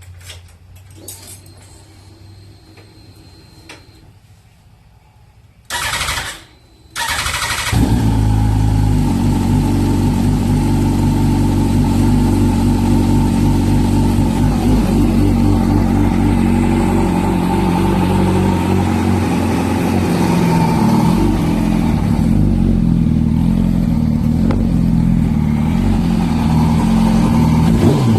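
Yamaha R1 inline-four sport-bike engine, newly swapped in, cranked on the electric starter in two short tries, catching on the second about seven seconds in, then settling into a steady idle.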